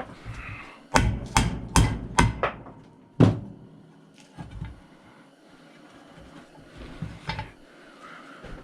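Hammer blows on metal parts of a chop saw being dismantled: about six sharp strikes within about two seconds, the last one loudest, followed by a few lighter knocks.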